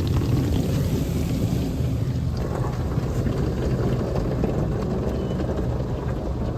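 Automatic car wash running over the car, heard from inside the cabin: a steady rushing of water spray and machinery on the body that thickens about two seconds in.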